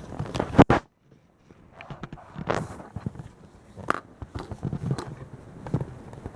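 Close-up handling noise as fingers fit a tiny diaper onto a small reborn doll: irregular taps, knocks and rustles. A sharp click comes just over half a second in, followed by a brief moment of silence.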